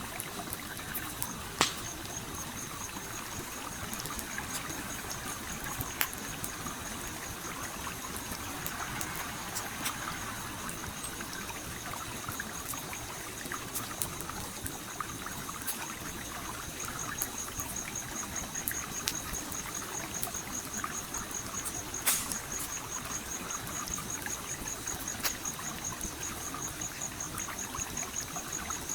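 Stream trickling steadily under a crackling campfire, with sharp pops from the fire, the loudest about a second and a half in, at six seconds and about twenty-two seconds in. A high, rapidly pulsing trill sets in about a second in and keeps on.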